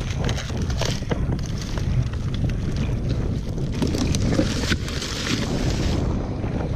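Strong wind buffeting the microphone, a continuous low rumble, with irregular short crackles and rustles and a stretch of brighter hiss about four to six seconds in.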